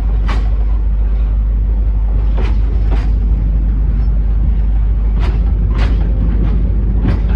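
Heritage passenger train pulling away, heard on board: a steady deep rumble with sharp clanks and clicks at uneven intervals, some in pairs about half a second apart.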